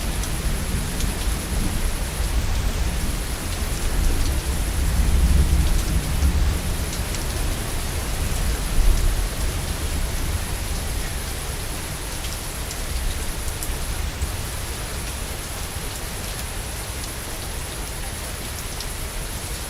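Heavy rain falling steadily with fine drop ticks, under a low rumble of thunder that swells through the first half, loudest about five and nine seconds in, then fades away.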